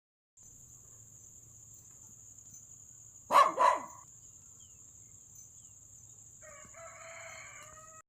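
A rooster and chickens calling: two loud, short calls a little after three seconds in, then a fainter drawn-out call near the end.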